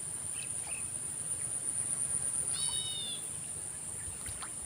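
Insects trilling steadily at a high pitch, with a brief high call about two and a half seconds in.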